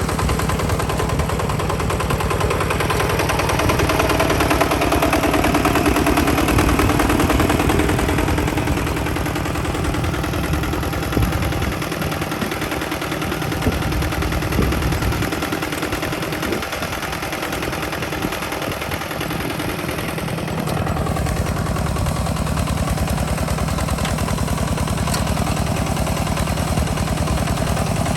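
Hinota hand tractor's engine running under load while plowing, a fast steady chugging. It is a little louder in the first seconds, eases for several seconds in the middle, then settles back to an even run.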